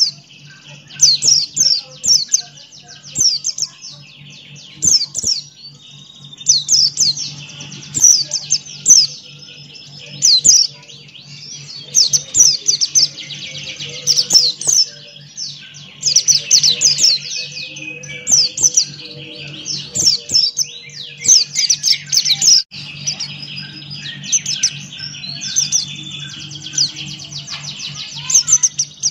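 Buxtoni white-eye (pleci) in full song: bursts of rapid, high chirps that fall steeply in pitch, repeated every second or two in long continuous strings. A steady low hum runs underneath.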